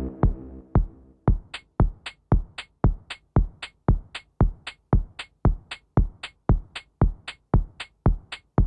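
Ambient techno: a sustained synth drone fades away in the first second, leaving a bare electronic kick drum pulsing steadily about twice a second, with a crisp hi-hat tick on each beat.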